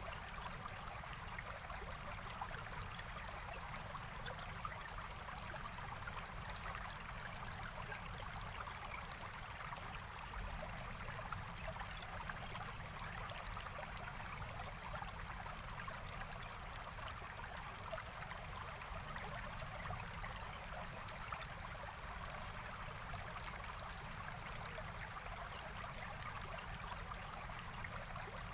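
Forest stream flowing steadily: a continuous rush and trickle of water over stones.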